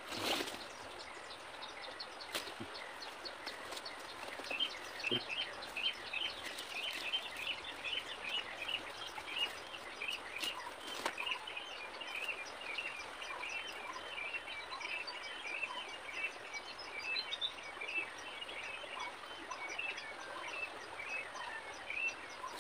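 A bird calling in a long run of quick, short, high chirps, several a second, starting about four seconds in, over a steady outdoor hiss. A few faint knocks and rustles come from hands working the ground at a bamboo-and-rope snare trap.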